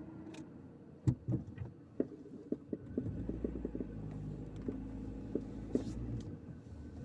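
Car engine heard from inside the cabin, idling quietly, then rising to a louder steady low drone about three seconds in as the car pulls away. Before that come a few sharp knocks and clicks.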